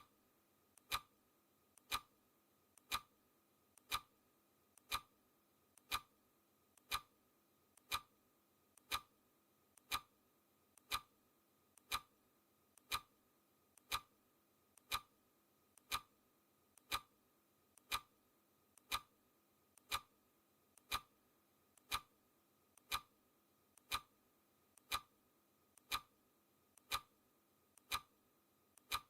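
Clock ticking sound effect, one sharp tick a second, with fainter ticks in between.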